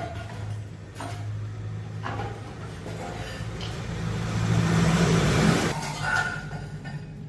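Restored Suzuki car's engine running, revved up to a louder peak about four to five and a half seconds in, then dropping back.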